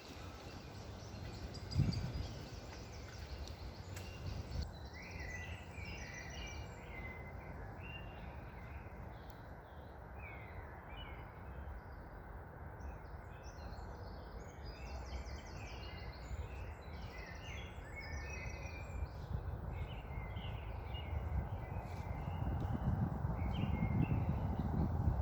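Several songbirds chirping and singing in quick short notes over a steady low rush of wind, which grows louder near the end as the birdsong thins. A single dull thump about two seconds in.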